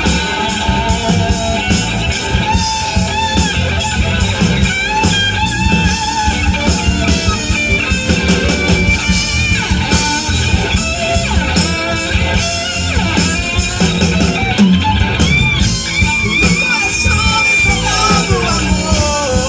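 Band playing an instrumental break between sung lines of a gospel song: a lead guitar melody over bass and drums keeping a steady beat.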